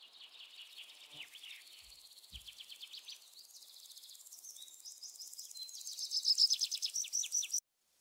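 Northern cardinal singing: a run of quick, high, down-slurred whistled notes that speeds up into a faster, louder trill in the second half and cuts off suddenly near the end.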